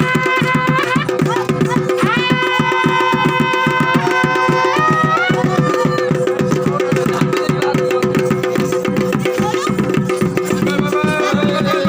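Traditional Kumaoni chholiya dance music: fast drumming on dhol and damau under a reedy wind melody that glides between notes over a steady two-note drone.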